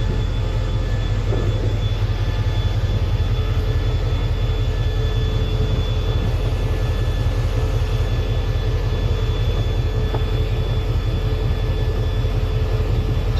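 Diesel-electric locomotive idling while stopped, heard from just above it: a steady low engine rumble with a fast even pulse and a faint steady whine over it.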